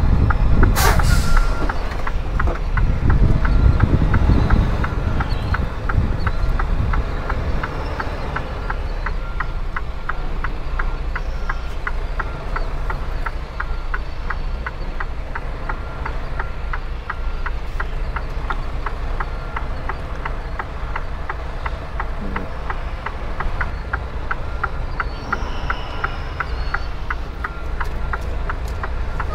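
Semi truck's diesel engine running, with a sharp hiss of air about a second in, typical of the air brakes. A regular high tick, about two to three a second, runs over the engine for most of the time.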